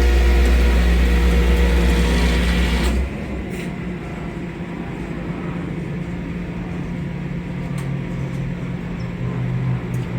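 Flatbed tow truck running: a loud low rumble with a steady whine that drops off sharply about three seconds in, leaving a quieter steady hum.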